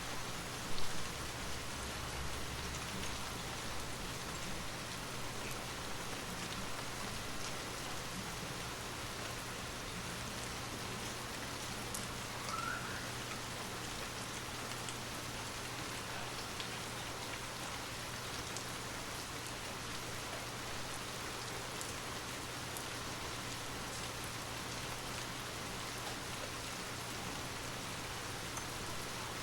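Steady rain falling, with a brief low rumble about a second in.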